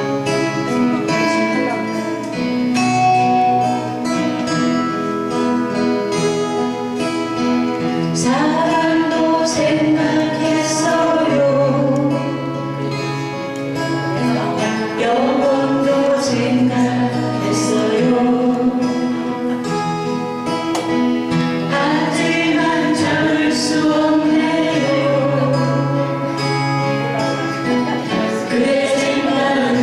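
Acoustic guitar playing a song accompaniment, with singing coming in about eight seconds in and carrying on over the guitar.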